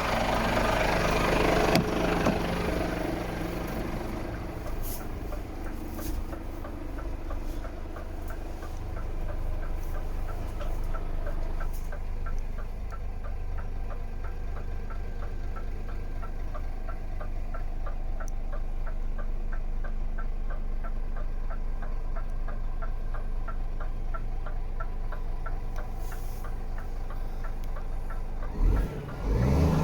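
Scania P410 truck's diesel engine idling steadily, with a fast regular ticking heard over it through most of the stretch and a single sharp click about two seconds in. Near the end the engine sound briefly surges louder.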